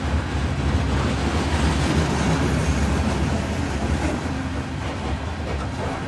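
A string of covered hopper cars rolling past on the rails: a steady, heavy rumble of steel wheels on track, with occasional faint wheel clicks.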